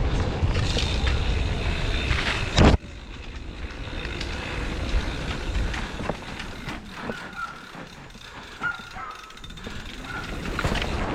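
Mountain bike ridden over rough trail: rumble and wind noise, then a sharp knock about three seconds in. After the knock it is quieter, with the rear freewheel hub clicking and the bike rattling over the ground.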